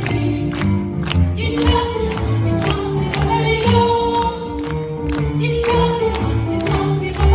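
Large children's choir singing with instrumental accompaniment, holding long notes over a bass line and a steady beat.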